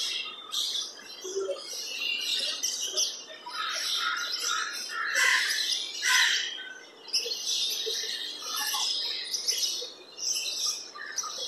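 Many small birds chirping and twittering in a dense, overlapping chorus, with the loudest bursts about five and six seconds in.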